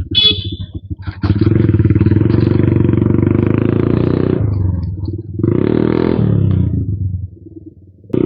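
Suzuki Gixxer Monotone's single-cylinder engine revved hard through a newly fitted aftermarket exhaust: one long rev of about three seconds, a short drop, then a second shorter rev, settling back to a low idle near the end.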